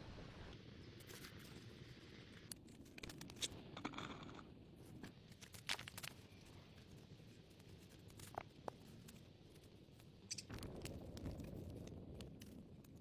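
Faint scattered scraping, crunching and sharp clicks, as of something being handled or worked, with a low rustling swell near the end.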